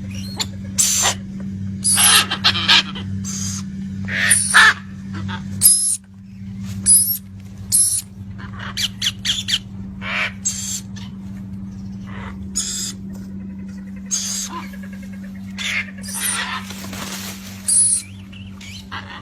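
Parrots squawking and chattering in short, harsh calls that come irregularly, over a steady low hum.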